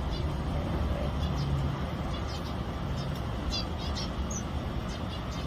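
Small aviary finches giving short high chirps, scattered singly and in quick little runs, over a steady low rumble.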